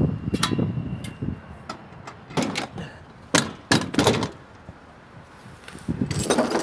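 A series of sharp knocks and clunks, the loudest a cluster about three to four seconds in, then a rushing noise that starts about six seconds in.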